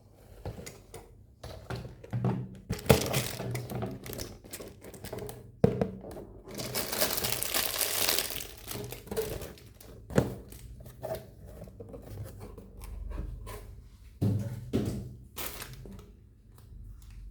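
Toy packaging being handled and opened: plastic crinkling and tearing, with a long rustle about seven seconds in and scattered knocks of the toy or box being set down.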